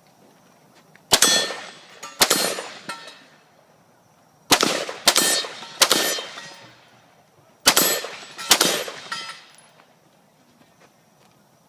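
Seven gunshots fired in three quick groups, each followed by the ringing of a struck steel target as it decays.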